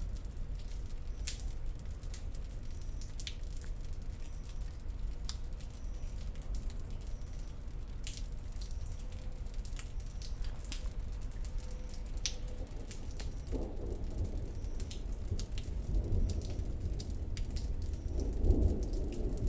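Rain falling steadily, with scattered drops ticking sharply, and a rumble of thunder that builds from about two-thirds of the way in and is loudest near the end.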